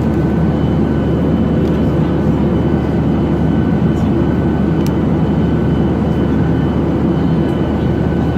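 Steady engine and airflow noise heard from inside the cabin of a Boeing 737-800 with CFM56-7B turbofans: an even, loud rush weighted to the low end, with a faint steady whine held on top.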